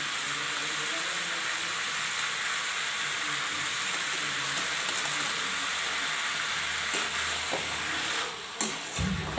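Marinated chicken frying in a metal kadai, a steady sizzling hiss as it is stirred with a spatula; the sizzle dips near the end, with a few scrapes.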